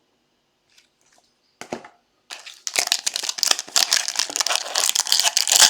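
Plastic card-pack wrapping being crinkled and crumpled by hand. After a few soft clicks, a dense crackle starts about two and a half seconds in and keeps going.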